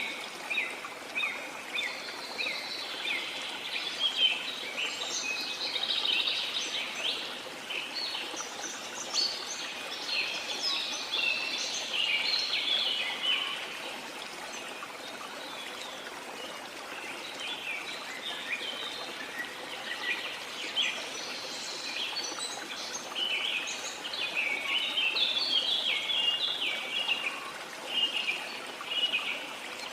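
Many small birds chirping and twittering in quick, overlapping notes over a steady wash of sea water. The chirping thins out for a few seconds in the middle, then picks up again.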